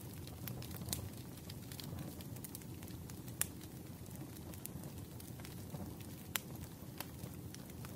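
Wood fire crackling: a steady low rumble of flames with sharp, irregular pops a few seconds apart.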